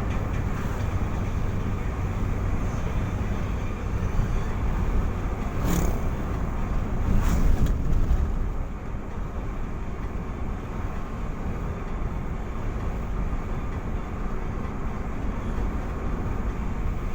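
Vehicle on the move: a steady low road and engine rumble, with two brief louder noises about six and seven and a half seconds in.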